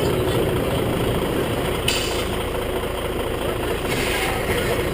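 Heavy truck engine idling steadily, with two short hisses, about two and four seconds in.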